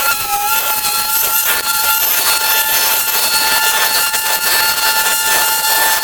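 A power tool or small engine running steadily: a high, even whine over a loud hiss.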